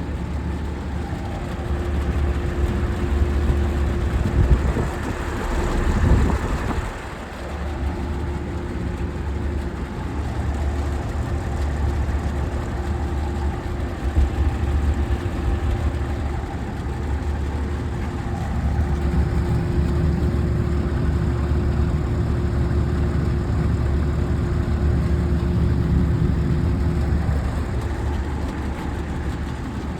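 Two 2009 Sanyo inverter ductless air conditioners running: a steady low fan-and-compressor hum with a thin steady tone on top that fades out for a stretch and comes back. A brief rush of noise swells up about five to seven seconds in.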